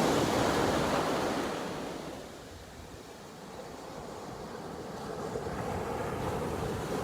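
Ocean surf washing onto the beach: a loud rush of a breaking wave at the start that fades away, then the wash slowly builds again as the next wave comes in.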